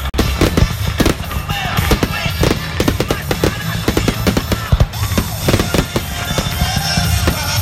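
Fireworks display going off in a fast run of sharp bangs, several a second, over a continuous low rumble, with music playing along.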